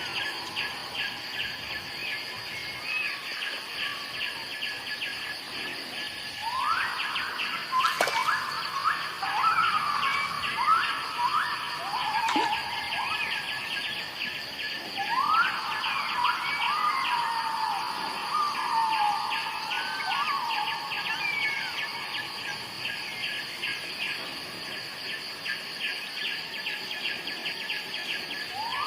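Birds calling over a steady chorus of insects: runs of rising, whistled calls come in two clusters, one about a quarter of the way in and another around the middle, while insects drone and trill throughout. A single sharp click stands out about eight seconds in.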